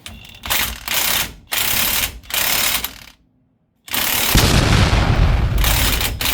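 Power drill driving the pinion nut down onto the yoke of a Dana 44 rear axle, in three short bursts and then one longer, louder run starting about four seconds in. The nut is being snugged up ahead of final torquing.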